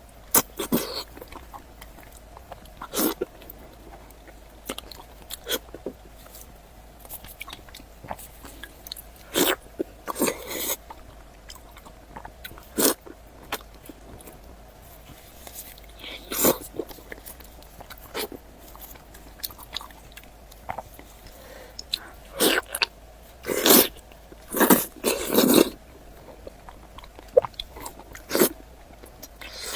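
Close-miked eating of fatty food: wet biting, chewing and lip-smacking sounds in irregular bursts, the loudest cluster a little past two-thirds of the way through.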